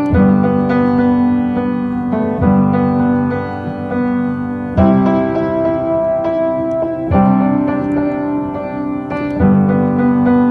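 Instrumental music: piano chords struck about every two seconds and held, with no singing.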